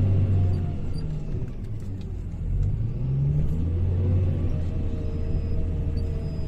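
Hyundai HL780-7A wheel loader's diesel engine working under load. Its pitch drops about a second in, then rises again between two and a half and three and a half seconds as it revs up, and holds there.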